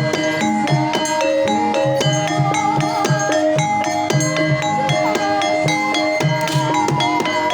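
Javanese gamelan music: struck bronze metallophones ringing out a steady, evenly paced melody over kendang hand-drum strokes.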